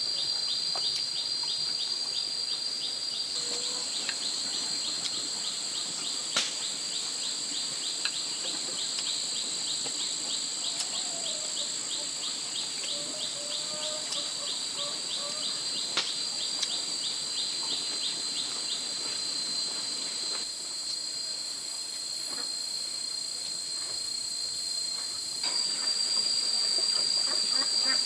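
Night insect chorus: steady high-pitched trilling of crickets and other insects, with a rapid, regular chirping over it for the first two-thirds and a few sharp clicks.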